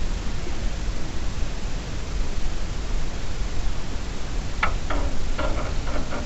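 Steady rushing noise with a low rumble underneath. About four and a half seconds in, a few short faint sounds come through it.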